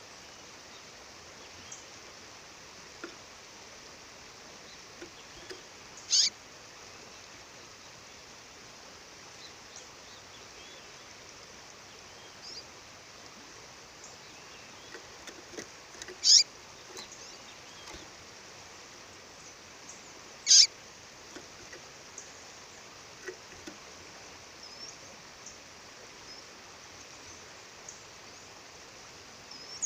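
A female songbird calling: three loud, short, high-pitched chirps several seconds apart, and fainter chirps in between. Steady waterfall rush runs underneath.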